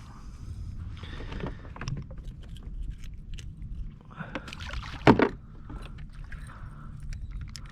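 Handling noises in a kayak: scattered small clicks and knocks with one loud knock about five seconds in, over a steady low rumble.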